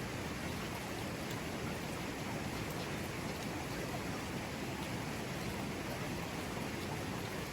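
Mountain river flowing over rocks: a steady, even rush of water with faint small splashes.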